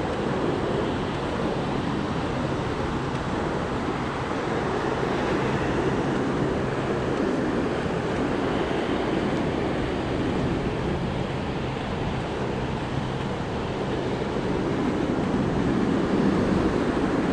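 Ocean surf washing onto a sandy beach: a steady rushing noise that swells a little near the end.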